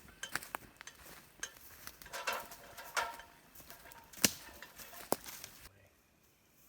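Scattered clicks, clinks and knocks of hard objects being handled, with a sharp knock about four seconds in; the clatter stops shortly before the end.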